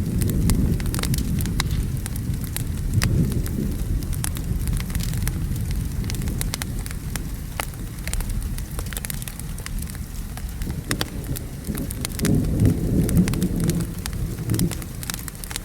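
Wood fire crackling with frequent sharp pops over steady rain, with a low rolling thunder rumble underneath that swells near the end.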